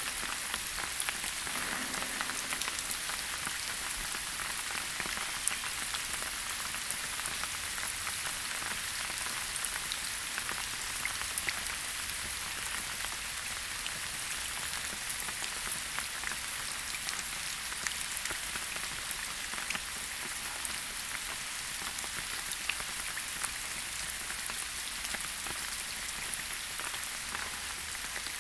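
Steady rainfall in a forest, a constant hiss with many individual drops tapping.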